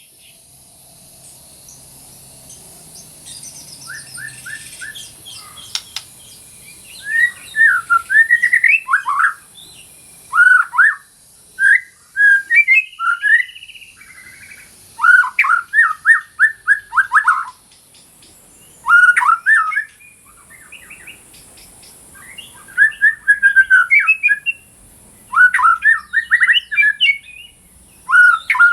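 White-rumped shama singing in repeated bursts of quick, varied whistled phrases, each a second or two long with short pauses between, after a quieter first few seconds. A steady high hiss runs underneath.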